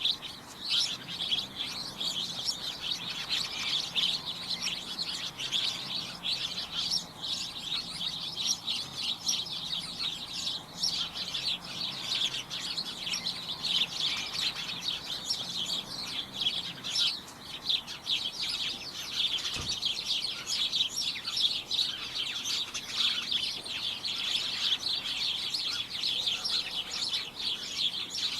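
A flock of small birds chirping continuously: many short, high chirps overlapping in a dense, unbroken chorus.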